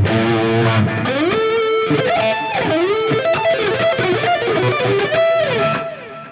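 Electric guitar played through a modelled Plexi amp on a multi-effects modeller: low chords at first, then single-note lead lines with slides up and down the neck, ending on a held note that rings and fades out.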